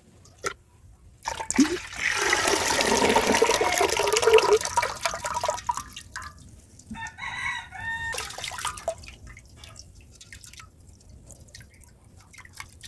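Water pouring and splashing for about four seconds, then a rooster crows once, followed by a few light clicks and knocks.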